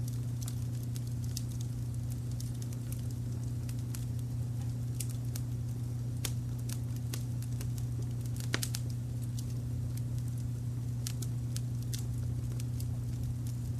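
Wood fire crackling, with scattered sharp pops and snaps; the loudest comes a little past the middle. Under it runs a steady, low-pitched layer of brown noise.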